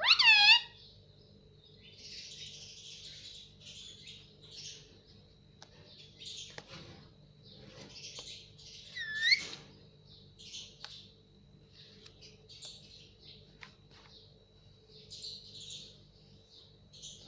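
Indian ringneck parrot calling: two loud, sharp calls, one right at the start and one about nine seconds in, with soft scattered chattering and chirps between them.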